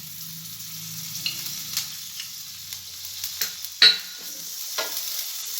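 Butter sizzling as it melts in a hot frying pan, with a few sharp knocks against the pan, the loudest a little under four seconds in.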